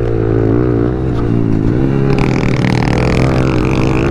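Honda CRF110F pit bike's single-cylinder four-stroke engine running hard on the track, its revs rising and dipping repeatedly while held in one gear.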